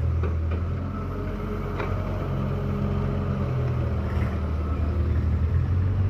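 Heavy diesel engine running under load. Its note drops about half a second in and climbs back up over the next few seconds. A few short metallic knocks sound in the first two seconds.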